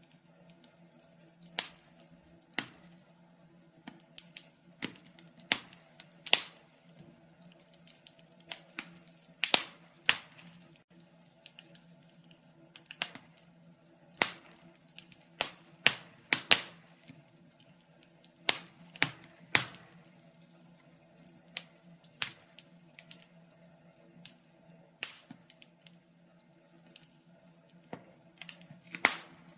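Wood fire in a fireplace crackling, with sharp irregular pops coming a few every second or two over a faint steady low hum.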